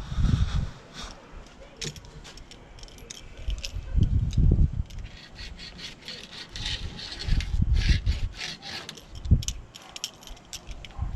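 Hand work on a door screen: irregular scraping and rubbing with many small clicks, and several heavy low thuds from the frame being handled.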